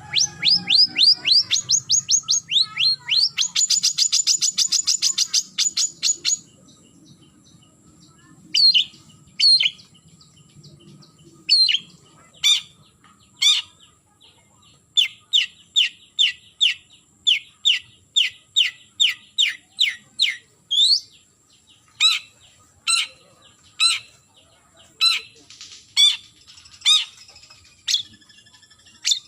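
Long-tailed shrike (cendet) giving its challenge call to a rival. A quick run of high, downward-slurred notes leads into a very rapid trill. After a pause comes a long series of sharp, falling notes, at about two a second in the middle stretch.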